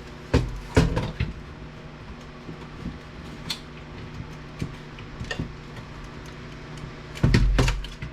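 Knocks and clatters of a DVD player's steel chassis and plastic front panel being handled and worked apart, a few sharp knocks early, small ticks in between, and a heavier clunk near the end.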